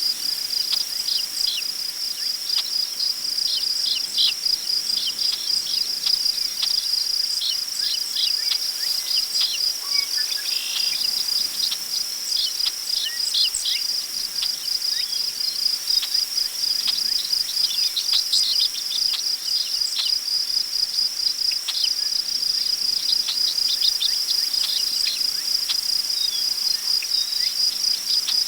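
Crickets chirping in a steady, rapidly pulsing high trill, with many short, high bird chirps scattered over it.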